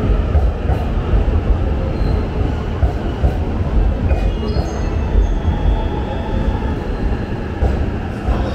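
Electric train pulling into a station platform: a steady low rumble, with a few thin high squealing tones about four to five seconds in.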